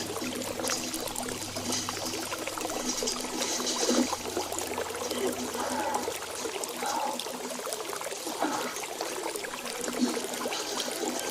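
Water trickling steadily, with brief higher chirps over it now and then.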